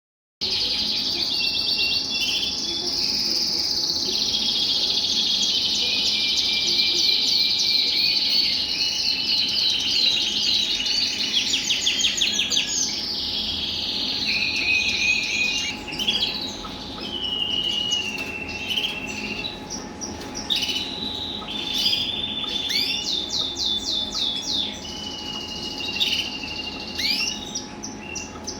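Several red factor colour canaries, cock birds, singing together in rapid overlapping trills and chirps, densest in the first half and thinning to separate phrases later. A faint steady hum runs underneath.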